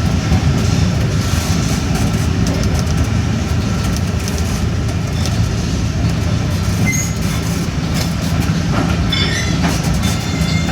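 Train running along rails: a steady low rumble with clickety-clack of the wheels. There are brief high wheel squeals about seven seconds in and again near the end.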